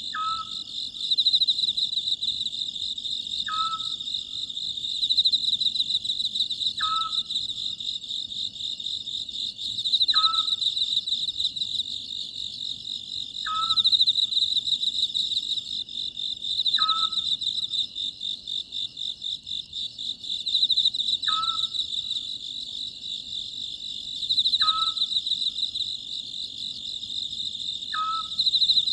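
Oriental scops owl calling a short, falling note about every three and a half seconds, over a dense, steady chorus of crickets.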